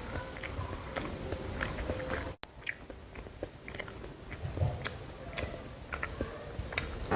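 Close-miked eating: chewing with many small, sharp crunches and clicks of food in the mouth. There is a momentary dropout to silence about two and a half seconds in.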